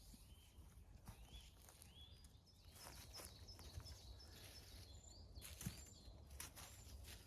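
Quiet forest ambience with a bird giving a series of short, arching chirps, about one a second, the notes climbing higher in pitch in the second half.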